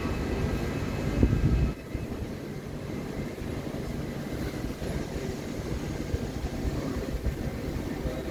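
Railway platform sound of a train: a low rumble with a steady high whine that swells and then drops away abruptly about two seconds in, leaving a quieter low rumble.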